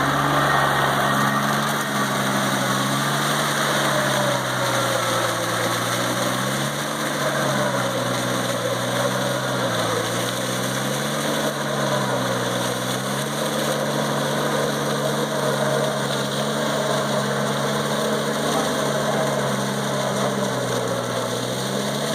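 Shibaura 33 hp tractor's diesel engine working under load while puddling a wet field, running steadily with its pitch dipping slightly and recovering a few times.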